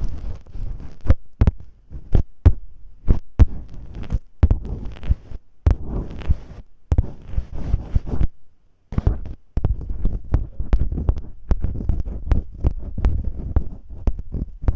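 Masking tape rubbed and pressed against a microphone in imitation of ear cleaning: a dense run of crinkly scratches and clicks over soft low thumps, with a short pause about nine seconds in.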